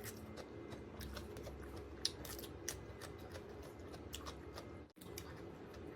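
Close-up chewing of crunchy giant octopus: faint, irregular small crunches and clicks.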